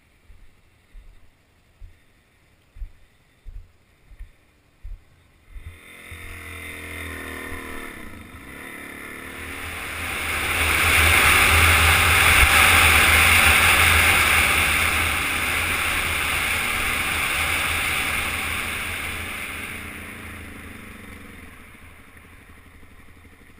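A motor vehicle approaching, passing close and fading away, with a noisy engine sound that swells and dies off over about fifteen seconds. Before it, a few soft low thumps.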